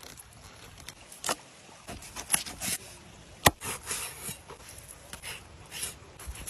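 Knife and food-handling sounds: irregular clicks, knocks and short scrapes, the sharpest knock about three and a half seconds in.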